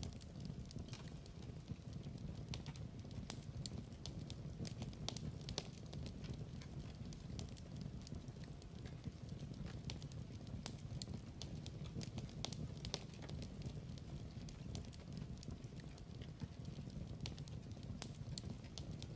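Wood fire in a fireplace crackling, with a steady low rumble under frequent irregular sharp pops.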